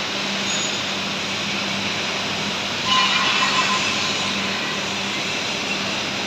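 Diesel engine of a hydraulic soil interlocking brick making machine running steadily with a constant hum, with a brief louder, harsher stretch about three seconds in.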